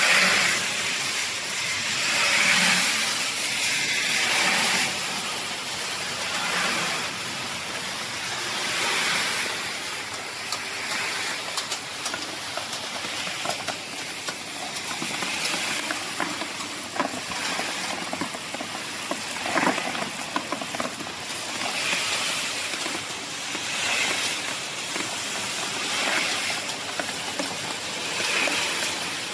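Pet food extruding line machinery running with a steady hiss that swells and fades every couple of seconds, with a few sharp clicks in the second half.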